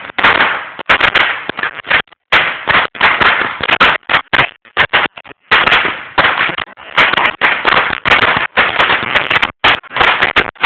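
A string of firecrackers going off in rapid, irregular sharp bangs, several a second, with brief pauses between clusters.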